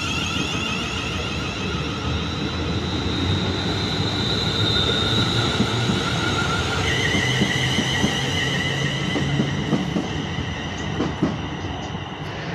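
Class 350 Desiro electric multiple unit pulling away: its traction inverters give a pulsing whine that steps up in pitch about seven seconds in, over a steady rumble of wheels on track. Near the end come a few sharp clicks as the wheels pass over rail joints.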